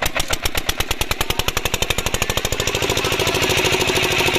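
Single-cylinder diesel water-pump engine running with a rapid, even exhaust beat that quickens and grows louder as it picks up speed.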